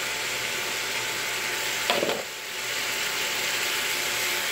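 Chicken thigh and smoked kielbasa sizzling in a Copper Chef pan on an induction cooktop. About two seconds in there is a brief clatter as chopped onions are tipped in and stirred with tongs, and the sizzle dips for a moment, then builds back.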